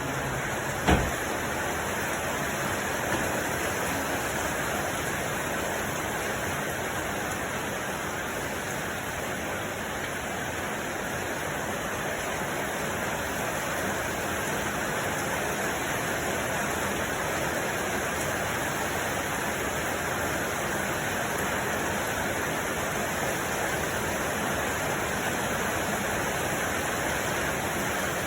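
Steady, even rushing noise, like running water or a noise machine, with one short knock about a second in.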